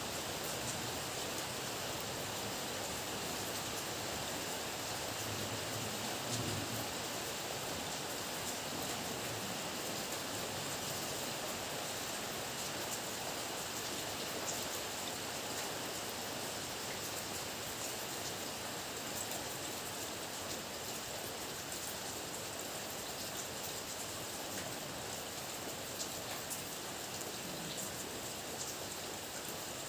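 Steady heavy rain, an even hiss of falling drops, with a faint low rumble about six seconds in.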